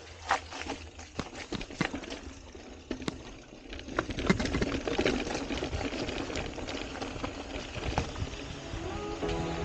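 Mountain bike rolling over a rough trail: tyres crackling on dirt and gravel, with sharp knocks and rattles, louder from about four seconds in.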